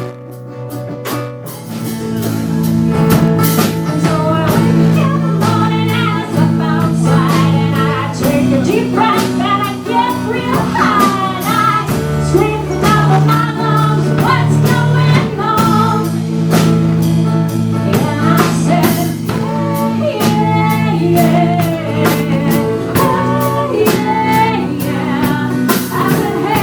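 A song with a sung lead vocal over a band of guitar, bass and drum kit. It starts thinner, and the full band and the singing come in about two seconds in.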